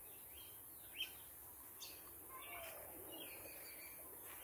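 Faint bird chirps: a few short, high calls scattered over a quiet background.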